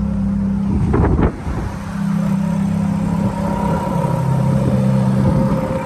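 Ferrari F430's 4.3-litre V8 idling steadily, with one knock or clunk about a second in.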